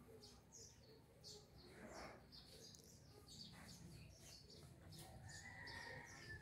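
Near silence, with faint birds chirping: many short, high calls scattered throughout.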